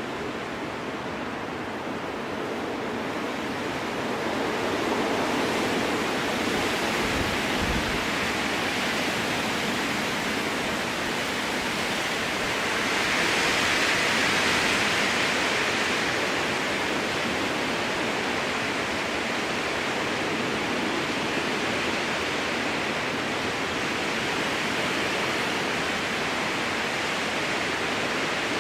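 Strong wind blowing through a spruce forest: a steady rushing that swells into a stronger gust about halfway through.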